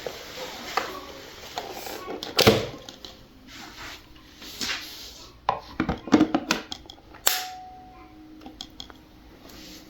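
Irregular knocks, clicks and rustling from hard parts being handled and set down, with one loud knock about two and a half seconds in and a quick cluster of sharp clicks about six seconds in.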